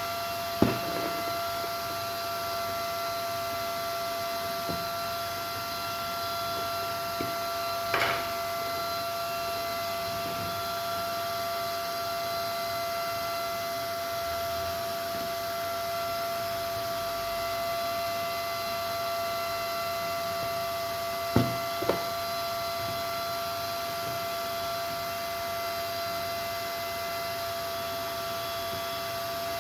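A steady electrical whine made of several fixed high tones, broken by a few short knocks and clicks, one near the start, one about eight seconds in and a pair about twenty-one seconds in.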